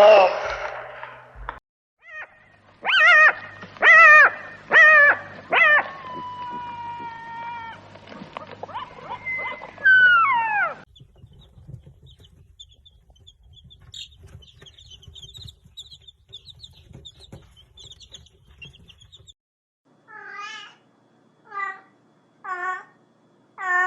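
Cats meowing: a run of short meows, a long held one and a falling one, then after a stretch of faint high chirps a series of short meows about a second apart.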